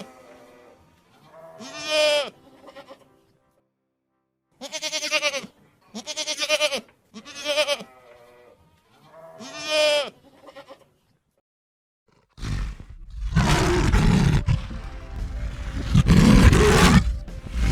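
Five quavering bleats from a young farm animal over the first ten seconds. After a short silence, a loud, rough roar from a large wild animal starts about twelve seconds in and runs on.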